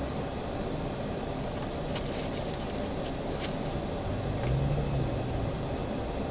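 Steady road and engine rumble of a moving car, picked up by a dashcam, with a few light ticks and a brief rise and fall in engine note about halfway through.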